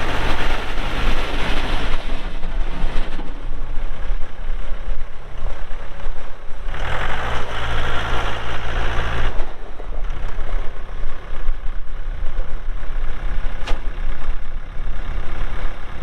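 Mahindra 3650P tractor's diesel engine running, louder for the first couple of seconds, then steadier. About six and a half seconds in, its pitch steps up and it runs louder for about three seconds before dropping back.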